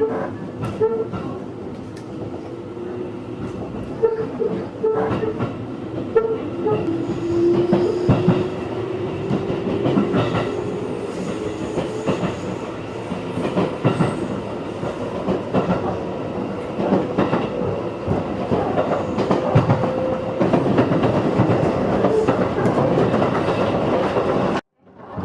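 JR 211 series electric train running, heard from inside the car: a steady rumble with wheels clicking over rail joints. A hum rises slowly in pitch as the train gathers speed. The sound cuts out briefly near the end.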